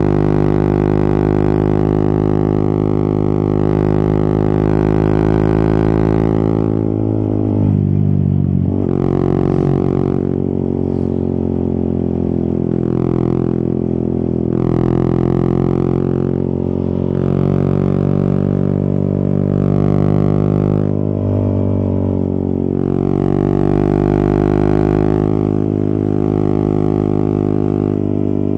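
Yamaha XSR 155's single-cylinder engine running under way, a steady drone whose note swings up and down with the throttle, with a sharp drop and recovery about eight seconds in.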